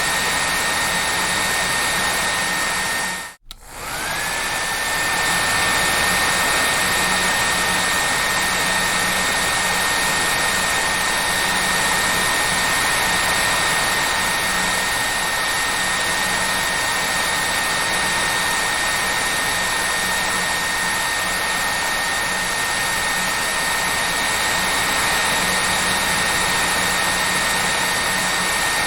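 Hair dryer running with a steady rushing blow and a high motor whine. About three seconds in the sound cuts out abruptly for a moment, then comes back with the whine rising to its pitch as the motor spins up again.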